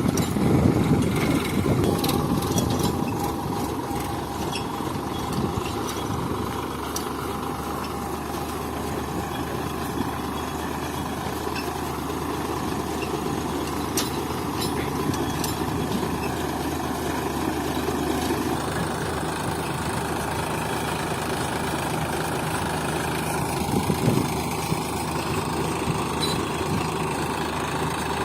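Tractor engine running steadily while pulling a cultivator between rows of corn, a little louder for the first couple of seconds.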